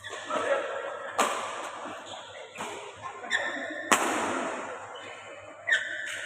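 Badminton rackets striking the shuttlecock: three sharp cracks, a few seconds apart, each with a short echo.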